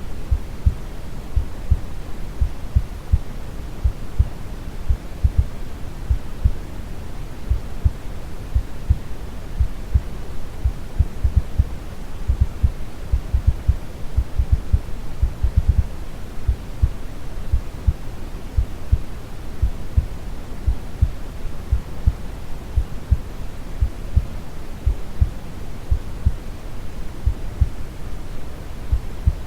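Brown noise, a deep steady rumbling hiss, with a calm heartbeat thumping in a slow, even rhythm over it.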